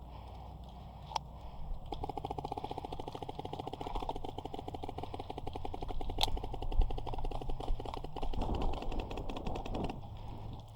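Airsoft gun firing a long full-auto burst of rapid, evenly spaced shots, about fifteen a second, for roughly six seconds. A single sharp click comes about a second in and another partway through.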